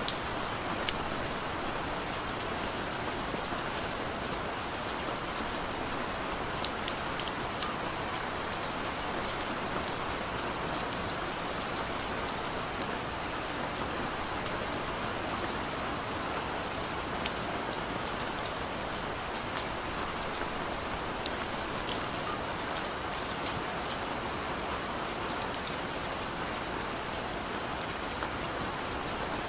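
Steady rain falling, with many small drop impacts on a surface.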